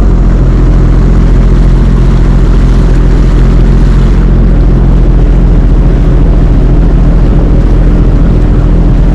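Sea-Doo jet ski engine running at a steady speed, loud and unchanging in pitch.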